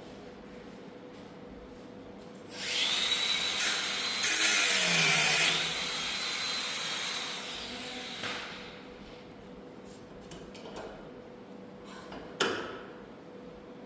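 A power tool runs for about six seconds, starting about two and a half seconds in, loudest in a short spell near the middle, then winding down. A single sharp knock follows near the end.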